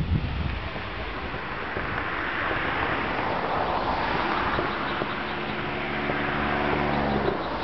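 Wind rushing on the microphone, swelling and easing, with a low steady engine hum setting in about five seconds in and stopping just before the end.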